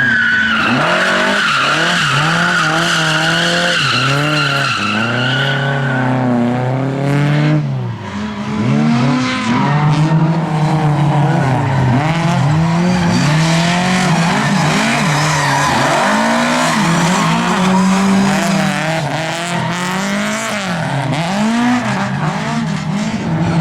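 Lada race car engine revving hard, its pitch climbing and dropping again and again through gear changes and lifts. Tyres squeal steadily over the first six seconds or so.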